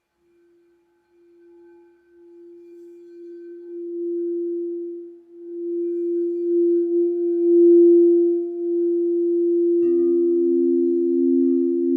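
Crystal singing bowl sounding one pure, steady tone that swells gradually louder. About ten seconds in, a second, lower-pitched bowl comes in with a soft knock and rings along with it.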